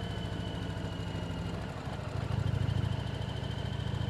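Motorcycle engine running steadily while riding. The throttle eases briefly and the engine pulls harder again a little past halfway.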